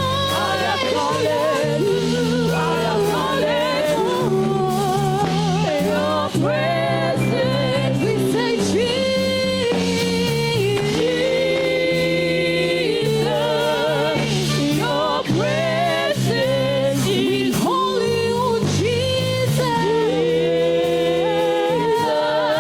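Gospel worship music: a singer's voice with vibrato over a band playing sustained chords.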